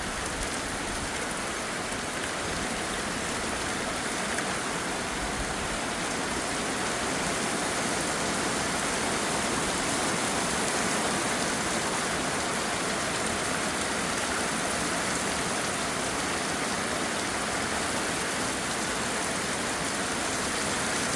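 Heavy rain falling steadily, an even, continuous hiss that grows a little louder partway through.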